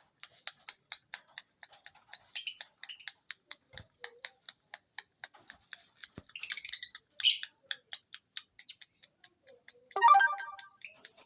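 Lovebird chattering: a fast, even string of short high chirps, about five a second, broken by louder squeaky calls, with a harsher, louder call about ten seconds in.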